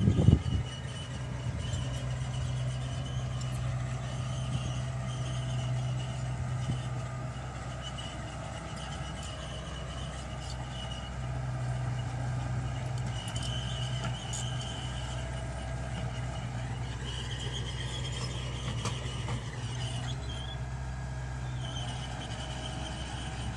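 Mitsubishi BD2G bulldozer's diesel engine running steadily under load as it pushes dirt, with a loud knock right at the start. Thin high whining tones come and go over the engine.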